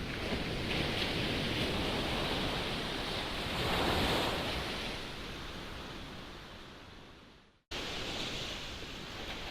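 Breaking ocean surf with strong wind blowing across the microphone, swelling to its loudest about four seconds in. The sound then fades to silence and cuts back in abruptly near the end.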